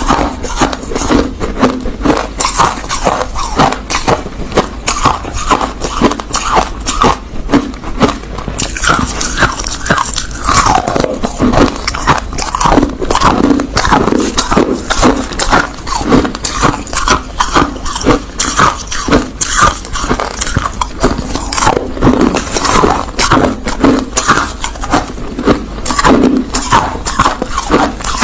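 Crushed ice being chewed close to the microphone: loud, crisp crunches one after another, several a second, without a break.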